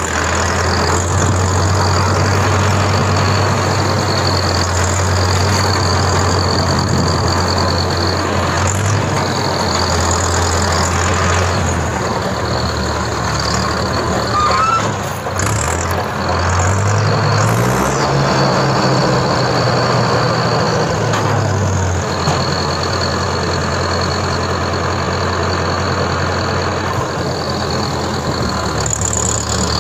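Heavy diesel engine, most likely a tractor's, running steadily, its pitch rising and then falling back about two-thirds of the way through.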